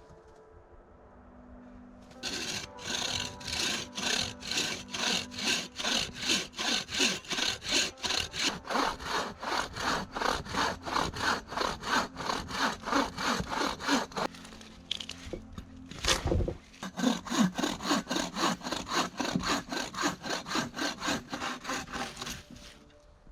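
Hand saw cutting a thin wooden pole in quick back-and-forth strokes, about three a second. The sawing stops about two-thirds of the way through, there is a single knock, and then the sawing starts again.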